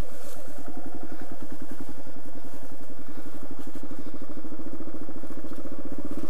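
Kawasaki KLR650's single-cylinder four-stroke engine running at low revs with an even, chugging beat as the motorcycle moves slowly over rough trail. There is a brief light clatter near the start.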